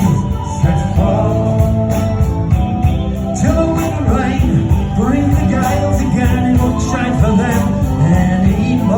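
Celtic folk-rock band playing live: a full band sound with a steady beat and bright, regular high percussion hits, with a wavering melody line over it.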